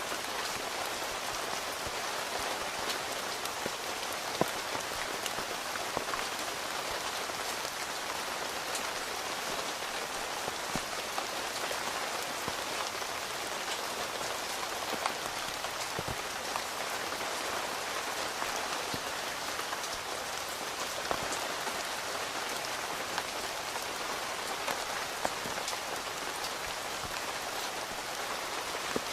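Steady rain falling on a tent, heard from inside, with scattered louder single drops tapping on the fabric; one sharp drop a little over four seconds in is the loudest.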